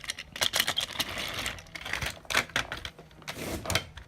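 Rapid, irregular clicking and clattering of small hard toy pieces, such as toy trains and track, being handled and moved about.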